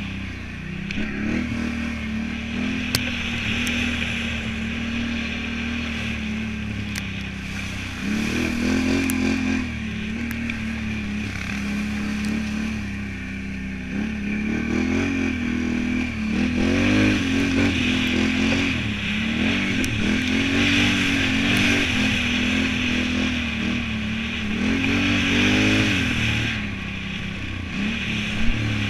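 Can-Am Renegade 1000 ATV's V-twin engine running hard while ridden, the revs rising and falling with the throttle every second or two, with a few sharp clicks.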